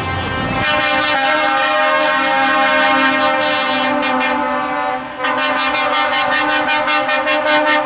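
Truck air horns sounding a chord of several tones, held for about four seconds, then blown in rapid blasts of about five a second.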